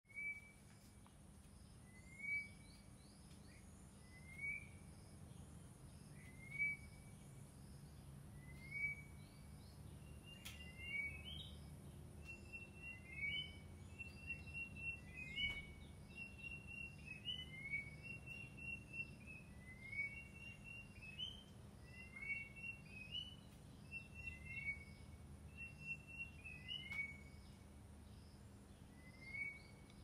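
Birds calling: a short rising whistle repeated about every two seconds, joined from about ten seconds in by a second, higher repeated note, over a faint low steady hum.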